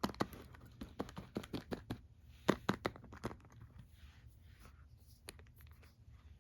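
Quick run of light clicks and taps from small plastic toy figures being handled, thick in the first half and sparser near the end.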